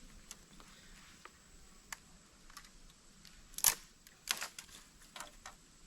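A few light, scattered clicks and knocks, the sharpest a little over halfway through and followed by a short rattle of clicks; the saw's motor is not running.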